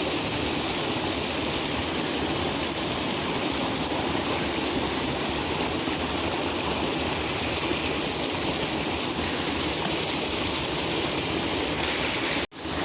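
Steady rush of flowing creek water, with a brief sudden dropout near the end.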